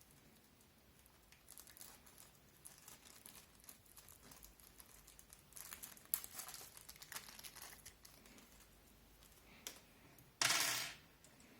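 Hands working on a computer case, fitting a case fan with its screws: scattered faint clicks and rustles of small plastic and metal parts, with one louder scrape about half a second long near the end.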